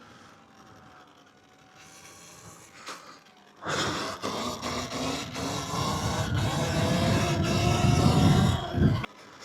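Yamaha WR450F's single-cylinder four-stroke engine, quiet at first and then loud and revving up for about five seconds from about four seconds in, its pitch slowly rising, before cutting off abruptly near the end.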